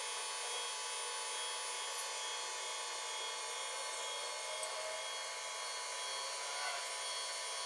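Edible bird's nest cleaning machine running: a steady, high-pitched mechanical whir.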